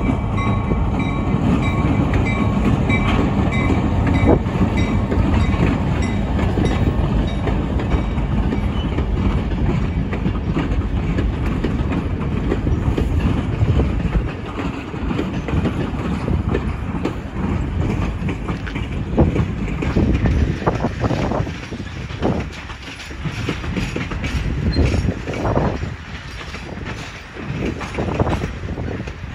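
Reading & Northern diesel-electric locomotive rumbling past with its engine running, followed by a string of passenger coaches rolling by. The coaches' wheels click over the rail joints, and the sound grows quieter and more uneven in the second half as the coaches pass.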